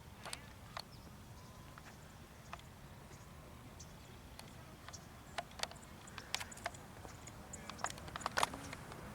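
Scattered sharp clicks and knocks over faint steady background noise, coming more often in the second half, with the loudest cluster near the end.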